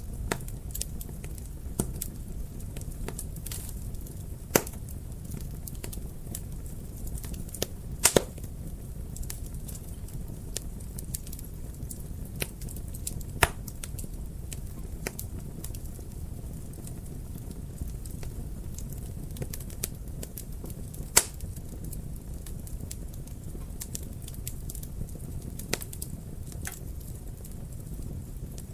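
Wood fire crackling in a fireplace: a steady low rumble of burning with scattered, irregular sharp pops, the loudest a quick double pop about eight seconds in.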